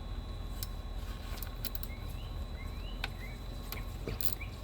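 Outdoor background with a steady low rumble, a few faint light clicks, and several short rising bird chirps in the middle.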